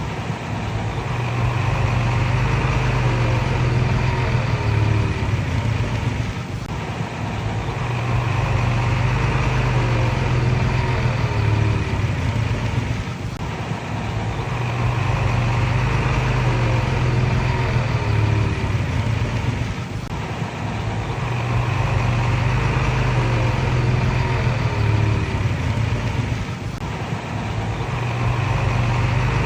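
Diesel engine of a Komatsu D31PX crawler bulldozer running steadily. Its sound swells and eases in a cycle that repeats about every six and a half seconds.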